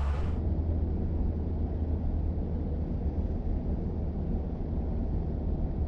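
A 2024+ Toyota Tacoma's turbocharged four-cylinder running through an AWE 0FG single exhaust: a steady low exhaust rumble with an uneven rushing noise above it.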